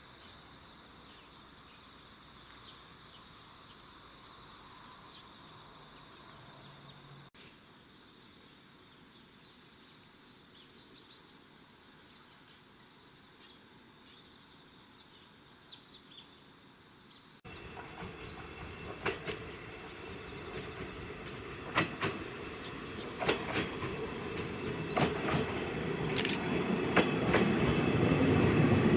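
Insects trilling steadily in a quiet spot; then, a little past halfway, an approaching electric train, with clacks over the rail joints and running noise growing steadily louder toward the end.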